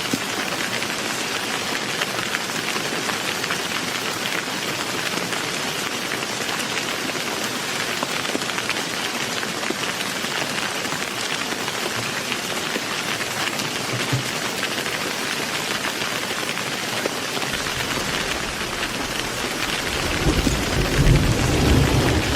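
Heavy rain pouring steadily, with a deep rumble of thunder rising near the end.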